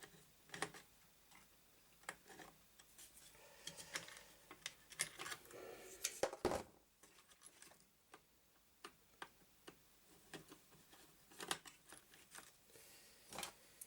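Scattered light clicks, taps and scrapes of metal and plastic parts being handled as a CPU cooler is fitted over a Pentium 4 processor, with one sharper knock about six and a half seconds in.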